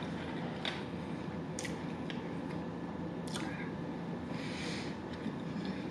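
Soft mouth sounds of a person chewing a mouthful of hot baked ziti, with a few faint clicks and smacks spread about a second apart.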